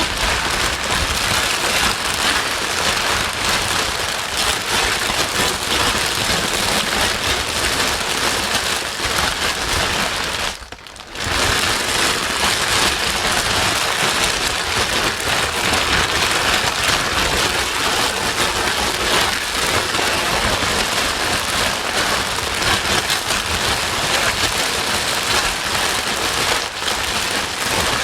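Steady, loud white noise that sounds like heavy rain. It drops out briefly for under a second about eleven seconds in.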